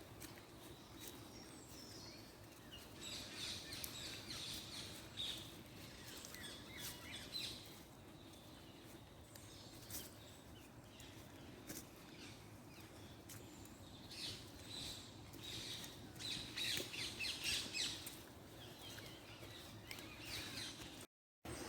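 Small birds chirping and calling in short, repeated notes over a steady low background hum, busiest in two spells. The sound cuts out briefly near the end.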